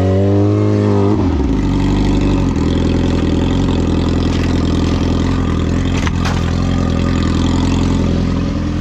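Car engine running, its speed dropping about a second in and settling into a steady idle. A single sharp click sounds about six seconds in.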